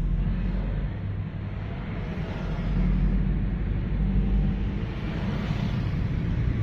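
Motor vehicle engine running steadily on the road, a low rumble with a light hiss of road and wind noise.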